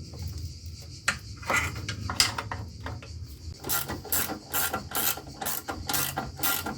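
Hand ratchet wrench working a bolt loose. A few scattered knocks and scrapes come first, then from about halfway in a steady run of ratchet clicks, about three a second.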